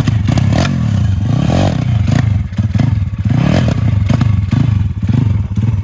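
Pit bike engine revving up and down over and over as the bike is ridden on makeshift chair caster wheels, with clattering and scraping from the wheels and frame on the pavement.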